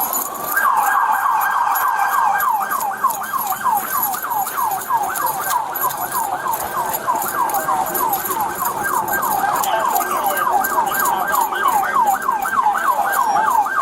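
Police car siren in rapid yelp mode, wailing up and down about three times a second. It starts about half a second in and cuts off near the end.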